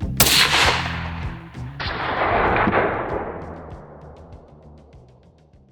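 Two loud gunshots about a second and a half apart, each followed by a long rolling echo. The second shot fades away slowly over about four seconds. Background music plays under the first shot, then drops out.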